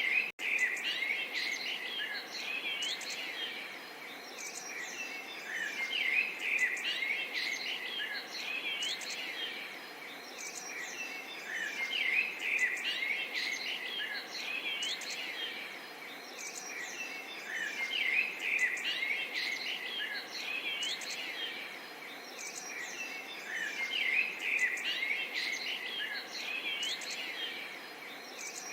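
Small songbirds chirping and twittering in clusters every few seconds, over a faint steady murmur of gently trickling water.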